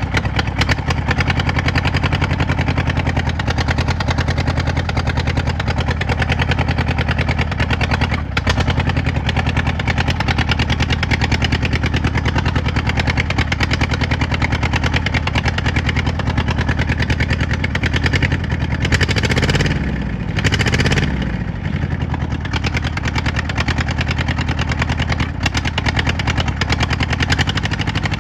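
1955 Allis-Chalmers CA tractor's four-cylinder engine running steadily with a clear firing beat, just after starting. About 19 seconds in the engine speed swings up and down twice, then settles back to a steady run.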